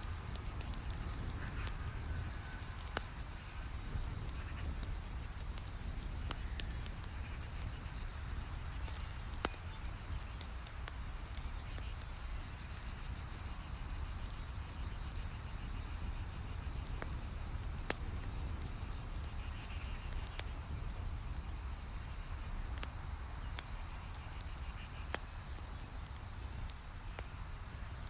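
Campfire burning, with irregular crackles and a few louder sharp pops over a low steady rumble. A steady high chirring of insects runs behind it.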